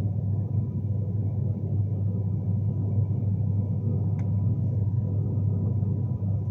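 Steady low rumble heard inside a Class 390 Pendolino electric train moving slowly, with a faint steady hum and one brief click about four seconds in.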